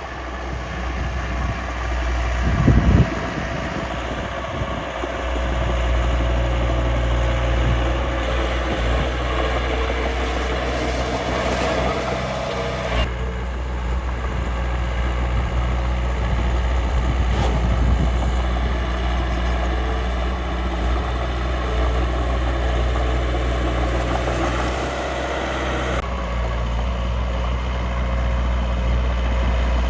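Steady low truck-engine sound of miniature RC construction machines (dump truck and bulldozer) running, with a loud knock about three seconds in and abrupt changes in the sound about 13 and 26 seconds in.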